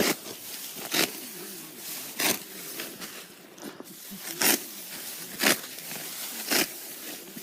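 Serrated sickle cutting through rice stalks by hand: six short, crisp rasping cuts, roughly one a second.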